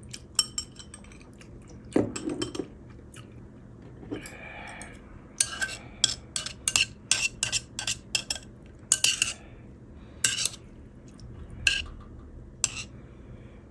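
Eating utensils clinking and scraping against a pot or bowl: a quick run of sharp clinks in the middle, with a few single clinks near the end.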